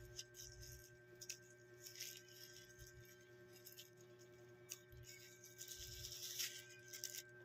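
Near silence with a few faint, scattered clicks and clinks of eating utensils, over a steady faint hum.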